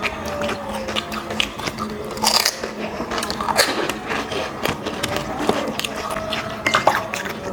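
Panipuri being eaten fast: crisp puffed shells crunching as they are bitten, with chewing and many short crunches one after another.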